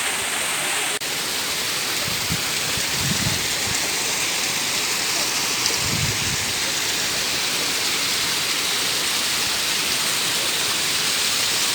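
Rushing water, a steady even rush with no break.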